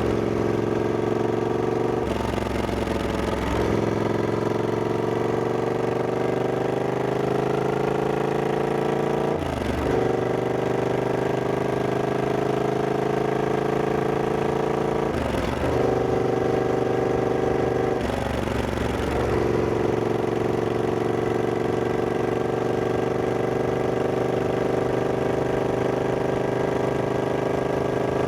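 Triumph Scrambler 1200X's parallel-twin engine running under way, its pitch rising slowly as it pulls in each gear. The note breaks off briefly four times in the first two-thirds, as gears are changed, then runs steadily.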